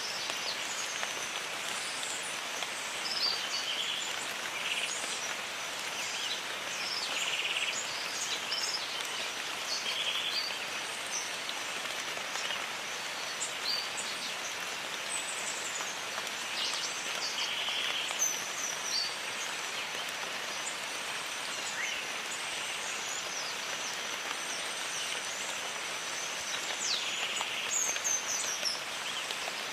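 Steady rain hiss with many short bird chirps and whistles scattered over it, and a thin steady high tone running beneath.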